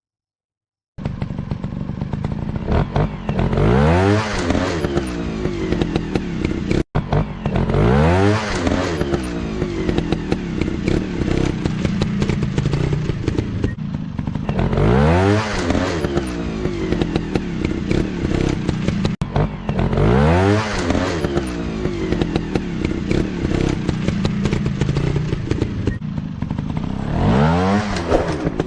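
Dirt bike engine running, revved up sharply about five times, its pitch climbing steeply each time before falling back. It starts after about a second of silence.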